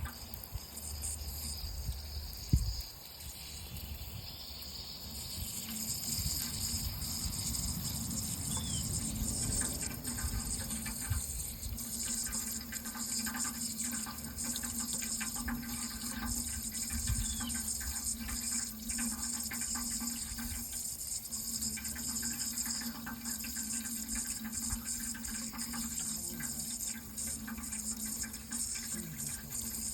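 Steady running water that grows louder and brighter about five seconds in, with one sharp thump about two and a half seconds in.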